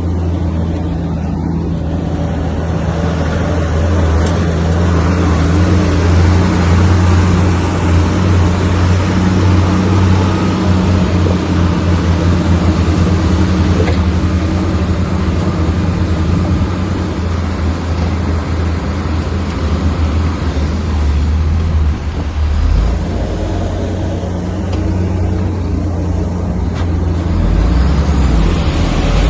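Bulldozer's heavy diesel engine running under load as it works, with steady low engine tones and mechanical noise over them; the engine note shifts a little past two-thirds of the way through.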